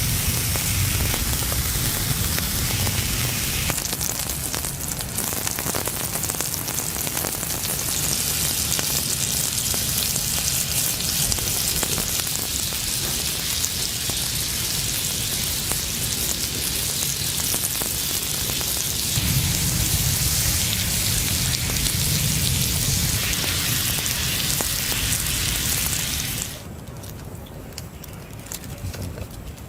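Food sizzling and frying in a hot pan, a steady loud hiss that cuts off suddenly near the end.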